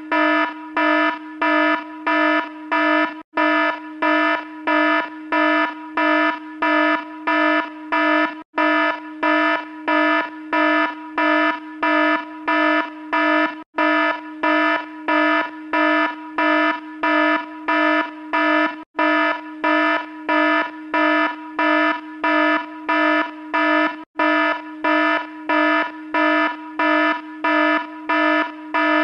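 Electronic alarm buzzer from a stock sound-effect library, sounding in rapid even pulses of a buzzy tone, about two or three a second. The clip loops, with a brief break about every five seconds.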